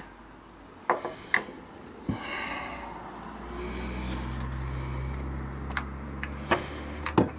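Scattered sharp clicks and taps of metal parts being handled while a door hinge pin and bushings are fitted. A steady low hum comes in about three and a half seconds in.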